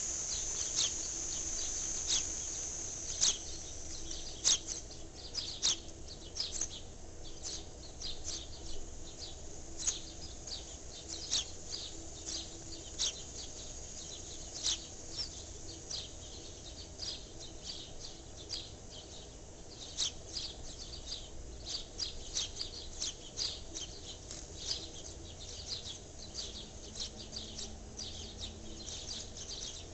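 Small birds chirping outdoors: short, high chirps repeating every half second to a second, with a faint steady background hum underneath.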